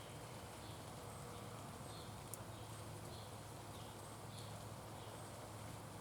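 Faint short bird chirps repeated a little more often than once a second, over a steady outdoor background hiss and a low hum, with a single sharp tick about two seconds in.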